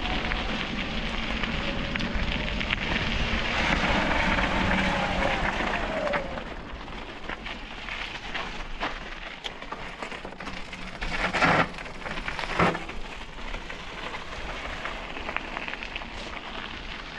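Wheels rolling over a rough path with a steady crackle, and wind on the microphone. Two sharp knocks a little over a second apart, about two-thirds of the way through.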